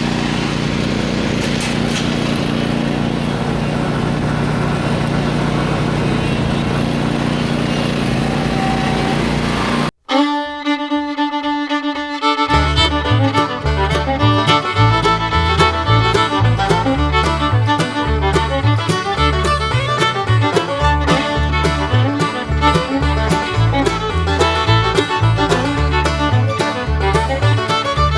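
A lawn mower engine runs steadily for about ten seconds. Then it cuts off suddenly, and fiddle-led bluegrass music with a steady beat plays.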